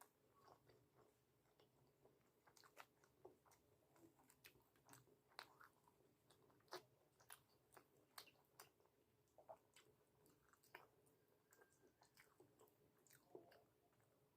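A person chewing and biting food, faintly, with many small irregular mouth clicks and soft crunches.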